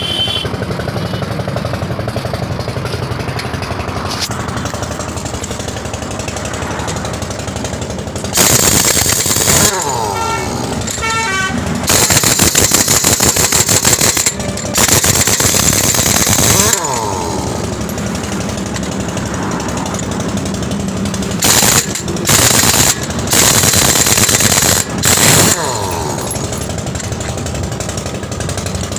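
Pneumatic impact wrench hammering at truck wheel nuts in several bursts of rapid rattling, each a second to a few seconds long, working them loose. A diesel truck engine idles steadily underneath.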